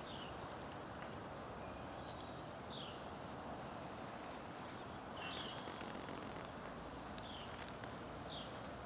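Birds chirping over a steady outdoor hiss: short downward-sweeping chirps every couple of seconds, with a quick run of higher notes about four to seven seconds in.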